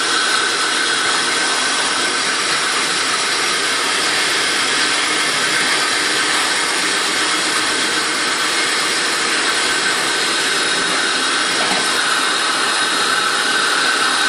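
Steady loud rushing of a moving train heard up through the open drop-hole of a train toilet: wind and wheel-on-rail noise from the track below, with a faint steady whine.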